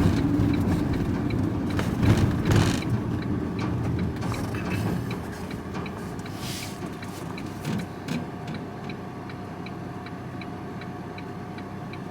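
Van's driving noise dies away as it slows and stops, leaving the engine idling. A turn-signal indicator ticks steadily about twice a second.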